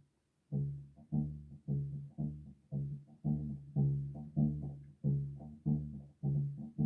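Bass guitar playing a riff of plucked low notes, about two a second with quick notes in between, starting about half a second in.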